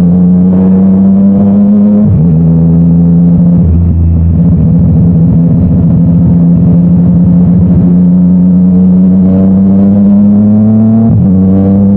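Yamaha MT-09's inline three-cylinder engine through an Akrapovic titanium exhaust, pulling under load with its pitch rising slowly and dropping suddenly at gear changes, about two seconds in and again near the end.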